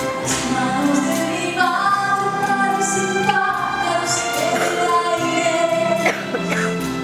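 Live singing over an orchestra, with long held, wavering vocal notes above a steady instrumental backing.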